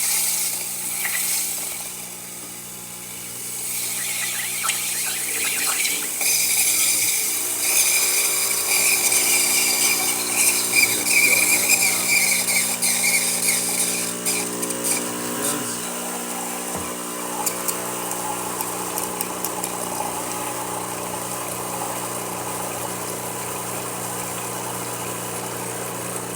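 Rancilio Silvia espresso machine's vibratory pump running with a steady hum, which sounds strong, as water is pushed through the boiler to cool it down. Hissing and spitting of water and steam ride over it for roughly the first fifteen seconds, after which the hum runs on more evenly.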